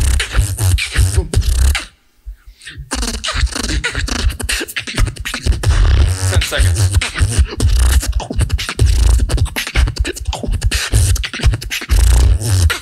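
Solo beatboxer performing through a PA: deep, booming bass kicks with sharp clicks and snares in a fast rhythm, broken by a short pause about two seconds in.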